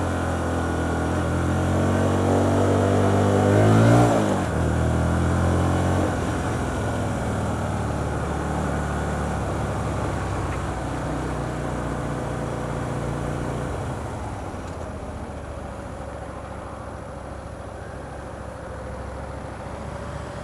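Hyosung GT125R's 125 cc V-twin engine under way: revs rise for about four seconds, break at a gear change, hold briefly, then the engine note drops back after about six seconds as the throttle is rolled off and slowly grows quieter.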